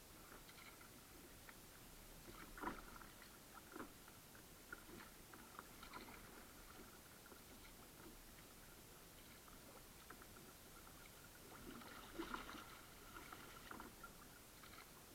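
Faint water sounds of a kayak being paddled: irregular small splashes and drips from the paddle blades and water against the hull, a little louder about two and a half seconds in and again about twelve seconds in.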